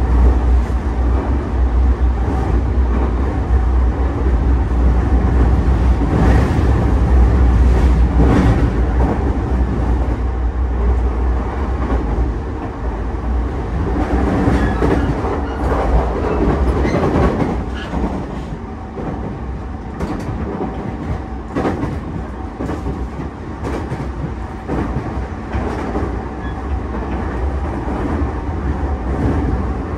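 Running noise of a JR East E233 series 5000-number electric train heard from inside the car at speed: a steady low rumble of wheels on rail with a faint clickety-clack and a steady hum. It is loudest in the first half and eases off from about 18 seconds in.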